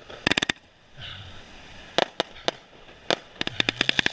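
Fireworks going off in a series of sharp bangs: a quick cluster just after the start, three more around the middle, and a fast rattling run of cracks near the end.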